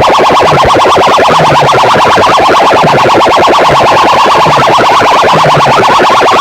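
Very loud, heavily distorted music blasting from large DJ loudspeaker rigs at a sound-system competition, with a fast pulsing beat and a shifting bass line; the sound is overdriven and clipped.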